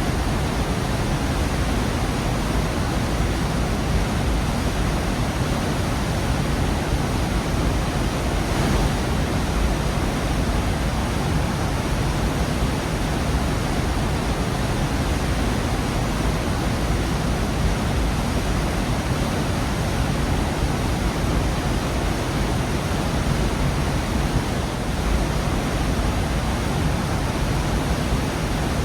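Gorge waterfall: a steady, full rush of falling water.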